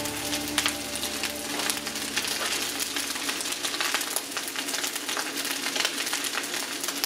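Fried rice sizzling in a hot wok, a steady fine crackle. Music fades out about a second and a half in.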